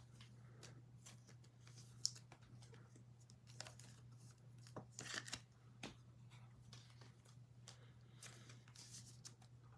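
Faint rustling and crinkling of trading cards and their pack wrappers being handled, in scattered bursts, with one sharp click about two seconds in, over a steady low hum.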